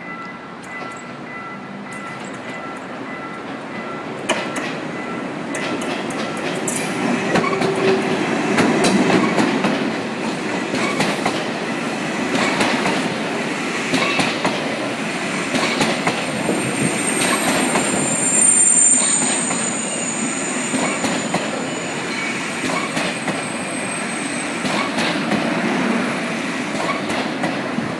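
KTX high-speed train running past at close range, building up over the first several seconds as it arrives. Its wheels clatter over the rail joints and crossing, and a high wheel squeal rides on top from about the middle of the pass.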